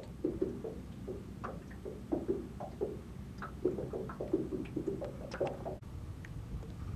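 Irregular small water plops and splashes, several a second, which stop suddenly about six seconds in and give way to a steady low rumble of wind on the microphone.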